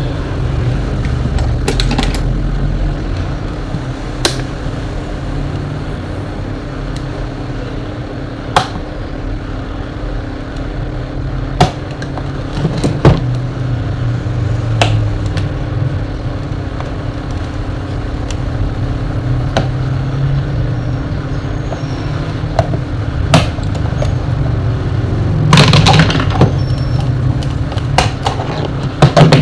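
Scattered sharp clicks and knocks of tools and metal parts as an electric fan is taken apart, a few seconds apart and bunching together near the end, over a steady low hum.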